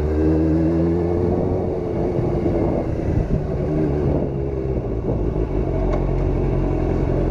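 Motorcycle engine running at low road speed, its pitch rising and then falling about a second in as the throttle opens and closes, over a low uneven rumble.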